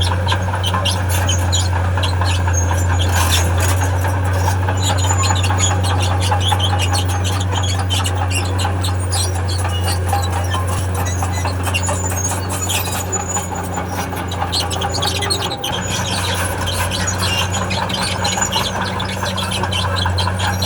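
Heavy crawler earthmover working: a diesel engine's steady low drone under the irregular squealing and clanking of its steel tracks, with a brief dip about three-quarters of the way through.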